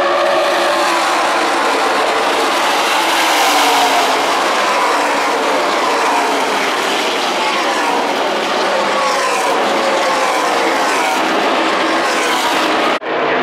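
NASCAR Truck Series V8 race engines at full throttle as a pack of trucks runs past, several engine notes overlapping and sliding in pitch. The sound drops out for an instant near the end.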